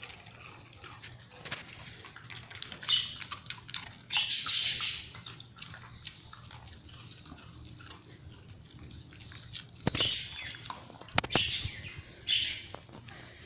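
Dogs playing with new toys: scattered knocks and scuffling with a few short hissing bursts, the loudest about four seconds in.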